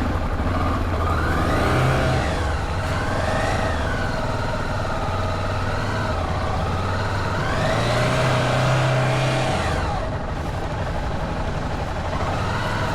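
Motorcycle engine running under a changing throttle, its revs rising and falling several times, with the largest rise and fall about eight to ten seconds in, over a steady low rumble.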